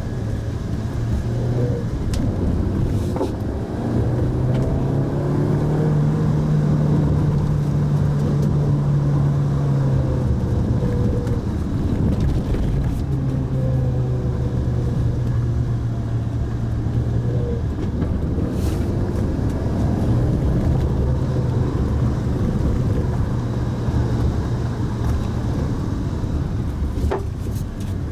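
Mitsubishi Pajero Mini kei SUV driving, heard from inside the cabin: steady engine and road noise. The engine note climbs a few seconds in, eases back near the middle and then holds steady. A few faint knocks come from the bumps of the road.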